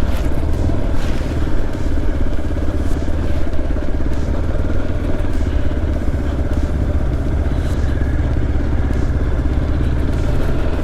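Motorcycle engine running steadily under way, with a constant low rumble.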